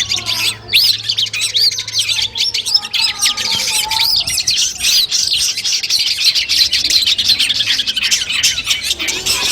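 Long-tailed shrike (cendet) song: a dense, unbroken stream of rapid high chirps and trills, with some lower whistled glides mixed in.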